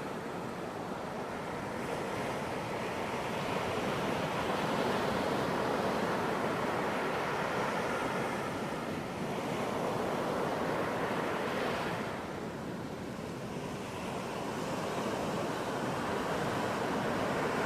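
Ocean surf washing onto a beach, a steady rush of water that swells and eases as the waves come in, with a brief lull about twelve seconds in.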